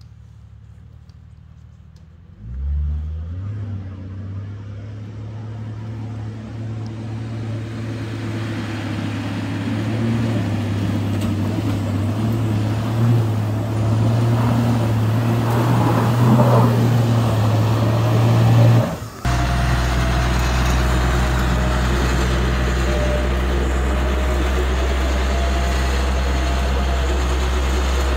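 Vehicle engine starting about two and a half seconds in and running, growing gradually louder. About nineteen seconds in the sound breaks off abruptly and a steady, lower engine hum follows.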